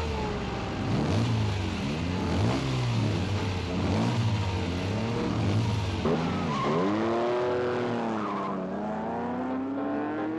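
Sports car engines revving hard in a race, the pitch climbing and dropping back again and again through gear changes, then one long rising pull near the end.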